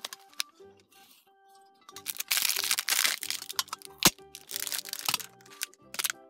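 Plastic packaging of a toy surprise egg crinkling and tearing in two longer spells, with a few sharp cracks and clicks, the loudest about four seconds in. Light children's background music plays throughout.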